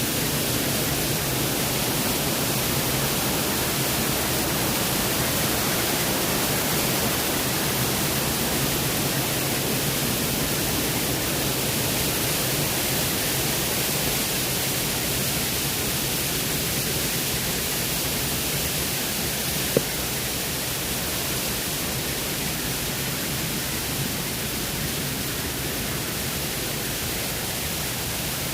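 Steady rushing roar of a waterfall, cascading water filling all frequencies evenly, with a single short click about twenty seconds in.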